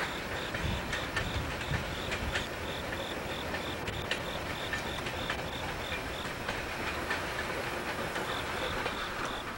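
Steam-hauled passenger train rolling away on the rails, with wheels clicking over rail joints under a steady rumble, and a faint high ticking about four times a second.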